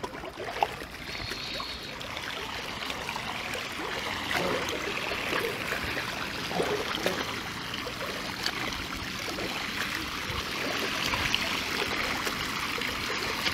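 Floodwater flowing steadily, a continuous rushing hiss with small splashes, building a little over the first few seconds.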